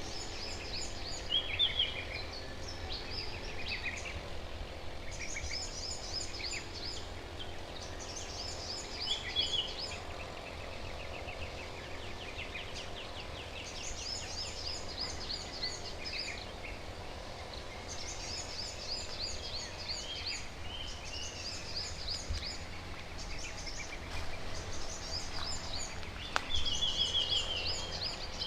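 Several wild birds singing and chirping, in repeated quick runs of high chirps and trills from more than one bird, over a steady low rumble.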